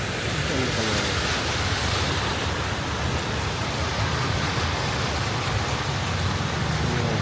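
Steady hiss of rain falling on a wet, flooded street, with a low rumble underneath.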